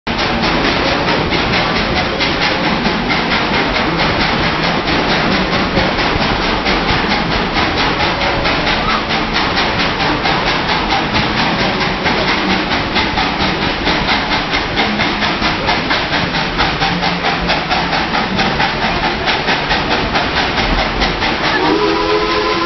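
Tweetsie Railroad steam train running at speed, a loud, steady hissing clatter with a fast, even beat. Near the end the locomotive's steam whistle starts to blow, a chord of several steady notes.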